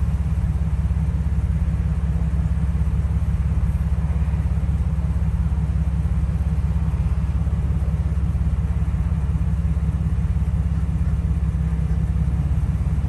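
A steady low motor rumble with a fast, even pulse, unchanging throughout.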